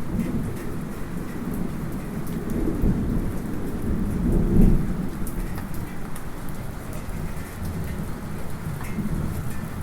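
Light rain with a rolling rumble of thunder that is not too close, swelling to its loudest about halfway through, heard from inside a house, with a faint scatter of drips.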